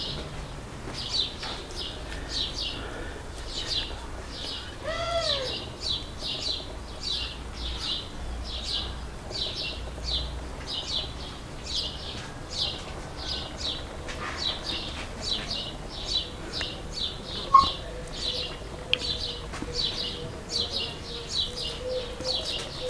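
A small bird chirping over and over, about two high chirps a second, with a short rising-and-falling call about five seconds in. A single sharp click stands out about three-quarters of the way through.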